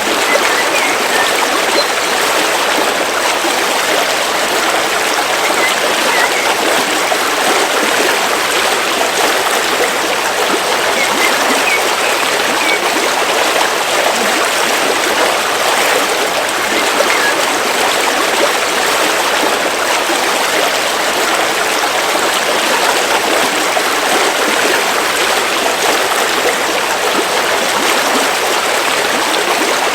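River water flowing steadily over rocks, an even, unbroken rush of stream water.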